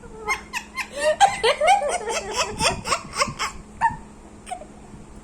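A burst of rapid, giggling laughter lasting about three and a half seconds, starting just after the beginning and dying away near the end.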